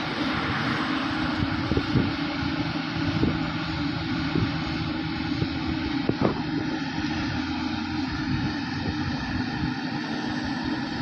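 Heavy diesel farm machinery running steadily during a silage harvest, from a forage harvester and tractors, with a few short knocks.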